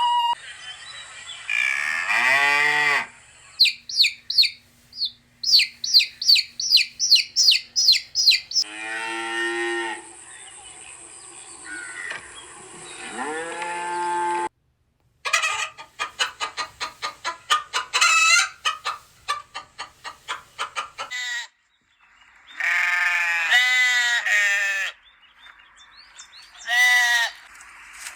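A run of farm-animal calls cut one after another: cattle mooing and chickens clucking, among other short repeated animal calls, with abrupt breaks between them.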